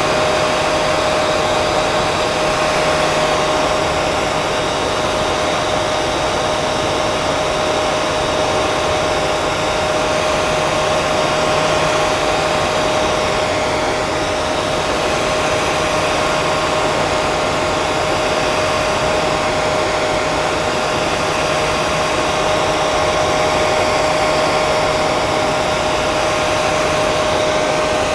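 Hair dryer running steadily: an even rush of blown air under a constant motor whine.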